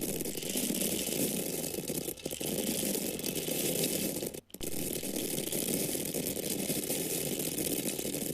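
Dry grains falling in a steady stream of many small ticks, briefly dipping about two seconds in and breaking off for a moment about four and a half seconds in before the stream resumes.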